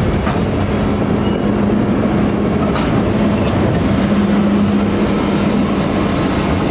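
Freight train of tank wagons passing close by: a loud, steady rumble of wheels on the rails. A few faint, brief wheel squeals come in the first second or so, and a sharp click comes near the middle.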